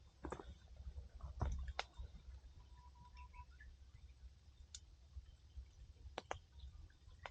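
Wood fire crackling: a handful of sharp, scattered pops from the burning firewood over a faint low rumble.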